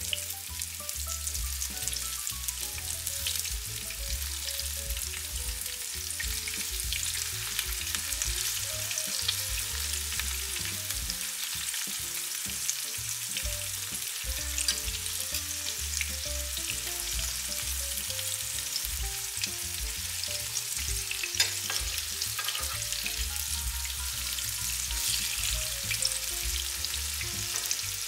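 Eggplant fritters shallow-frying in olive oil in a frying pan, freshly turned to cook the second side: a steady sizzle full of fine crackles. A single sharp knock comes about two-thirds of the way through.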